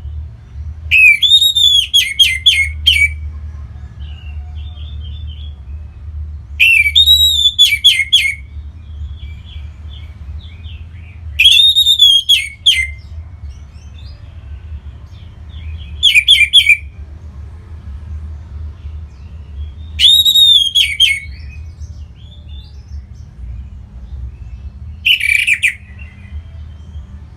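Orange-headed thrush singing: six short phrases of loud, arching whistled notes, about one every four to five seconds, with soft twittering between them. A steady low hum runs underneath.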